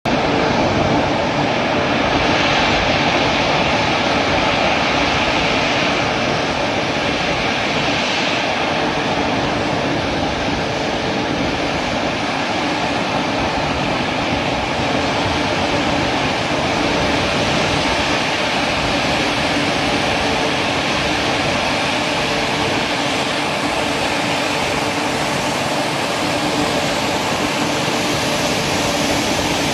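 Jet aircraft engines running: a loud, continuous, even noise with a few faint steady tones, unchanging throughout.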